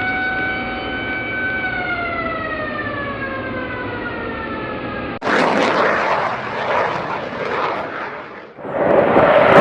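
Sound effects: a siren tone holds, then winds down in pitch. About five seconds in it cuts to a sudden loud rush of jet aircraft noise, which drops away briefly and comes back louder near the end.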